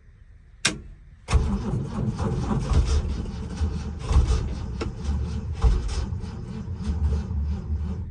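A click, then from about a second in the 1975 Ford F-250's engine cranking on the starter with an uneven pulsing churn, not catching, in 3-degree cold after a battery boost.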